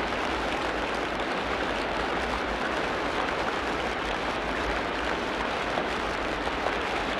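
Steady rain falling on a tropical rainforest: an even, unbroken hiss with no distinct calls or events.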